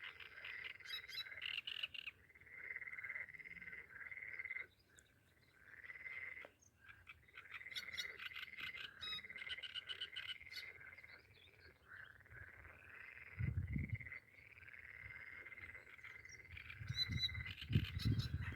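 A chorus of frogs calling by the water, their calls coming in runs of a second or two almost without pause, with short bird chirps now and then. Two brief low rumbles, past the middle and near the end, are the loudest moments.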